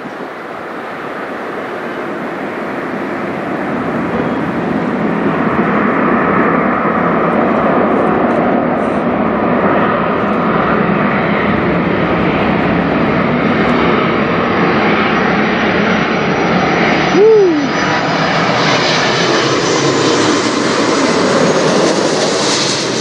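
Air Transat Airbus A330-243 flying over low, its twin Rolls-Royce Trent 700 jet engines rising to a loud, steady roar over the first few seconds and getting brighter and higher near the end as it passes overhead. A short falling tone cuts in briefly about two thirds of the way through.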